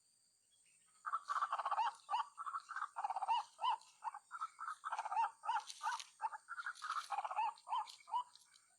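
White-breasted waterhen calling: a quick run of repeated call notes, several a second, starting about a second in.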